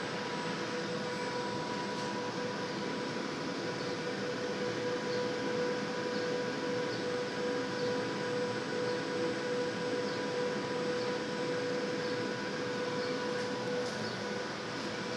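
A KUKA KR210 industrial robot running a CNC machining program. Its tool spindle gives a constant whine over a steady, noisy machine hum.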